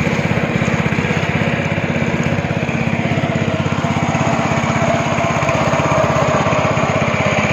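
Speedboat engine running steadily, a fast even pulsing drone.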